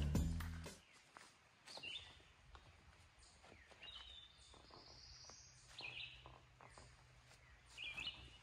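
Background music fading out in the first second, then faint birdsong: a few short chirps and one rising whistled call, with light footsteps on the leaf-littered trail.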